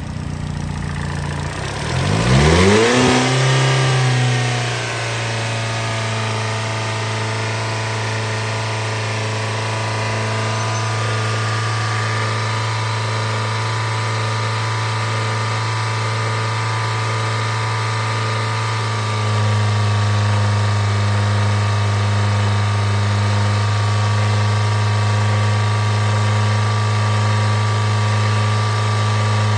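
A 2013 Hyundai Elantra's 1.8-litre four-cylinder engine starts: a brief cranking, a rise in revs as it catches and flares, then it settles to a steady idle within a few seconds. About two-thirds of the way through, the idle grows a little louder.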